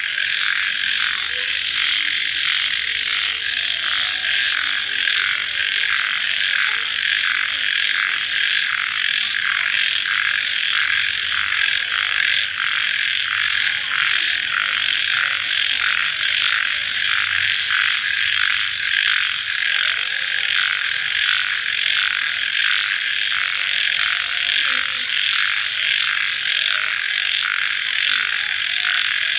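Dense night chorus of crickets chirping after rain, high-pitched and pulsing in a steady, regular rhythm without let-up.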